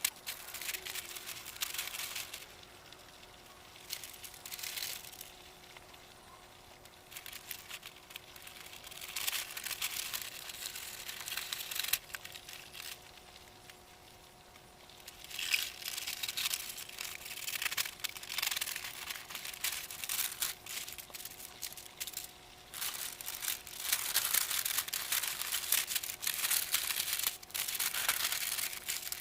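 Dry material rustling and crinkling in irregular bursts as it is handled and spread, over a faint steady hum.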